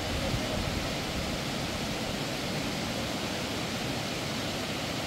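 A steady rushing noise, even across high and low pitches, with a flickering low rumble and no distinct events.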